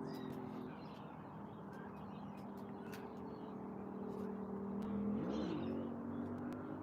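A motor-vehicle engine running steadily, with its pitch dipping and rising again briefly about five seconds in.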